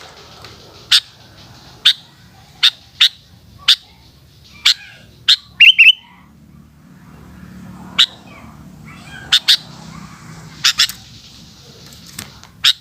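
Sooty-headed bulbul (kutilang) giving short, sharp chirps at irregular intervals, with a louder quick run of notes about halfway through and a brief pause after it.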